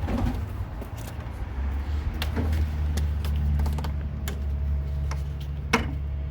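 A steady low motor hum that grows stronger about a second and a half in, with scattered clicks and knocks over it.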